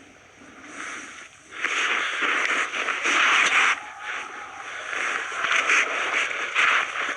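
Footsteps crunching through snow, about one crunchy step a second, starting about a second and a half in.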